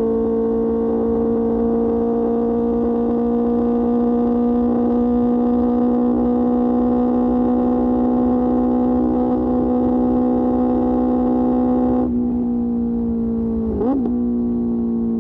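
QJ Motor SRK600 inline-four engine through an SC-Project exhaust, running steadily at cruising revs with a slowly rising note. About twelve seconds in the hiss drops away and the note sinks a little, then gives a quick dip and rise in pitch near the end.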